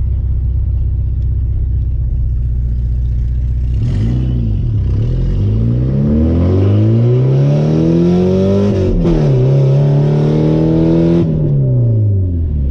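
Porsche 944's 2.7-litre four-cylinder engine through a loud straight-pipe exhaust. It runs low and steady at first, then about four seconds in accelerates hard with the revs climbing. A quick upshift drops the revs briefly just before nine seconds, they climb again, and near the end the throttle lifts and the revs fall away.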